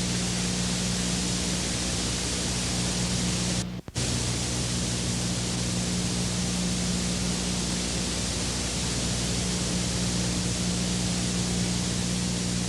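Steady hiss with a low, even hum underneath, broken by a brief dropout to near silence about four seconds in.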